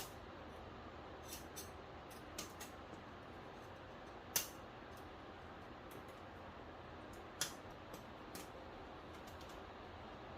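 Scattered light clicks and taps of TV parts being handled during a backlight repair, the sharpest a little before halfway, over a steady low background noise.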